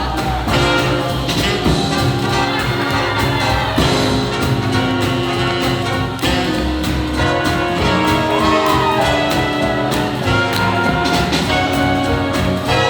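Live swing jazz band playing for Lindy Hop dancers, with horns over a steady drum beat.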